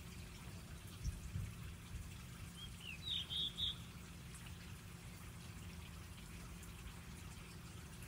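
A bird gives a short run of high chirps about three seconds in, over a faint steady low hum. A soft low thump comes about a second in.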